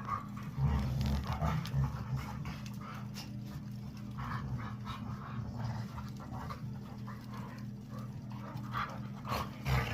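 A dog panting, with scattered short, soft noises over a steady low hum.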